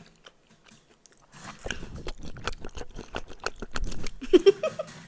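Close-miked eating: biting and chewing food with dense crunchy, wet clicks that start about a second and a half in.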